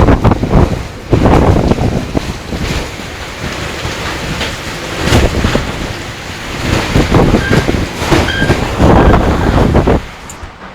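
Strong, gusty wind buffeting the microphone in loud, uneven gusts that drop away shortly before the end.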